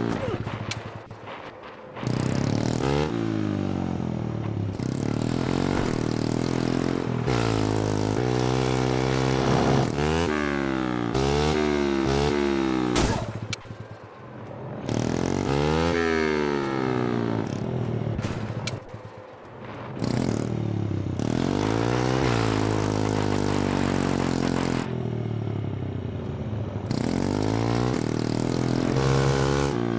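A mini bike's small engine revving up and easing off over and over as it is ridden, with brief lulls about a second in, around the middle and about two-thirds through.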